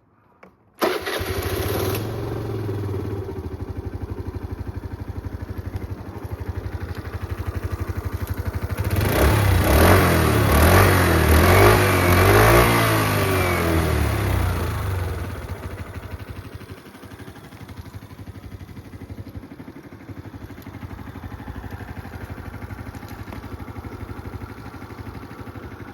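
Suzuki Let's 4 Basket scooter's 50cc four-stroke single-cylinder engine starting about a second in and running, revved up from about nine to fifteen seconds, then settling back to a steady idle with its throttle position sensor freshly repaired.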